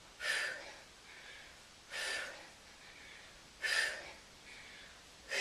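A woman's heavy exercise breathing during squats: four forceful exhales about every one and three-quarter seconds, each followed by a fainter inhale, the sign of a raised heart rate.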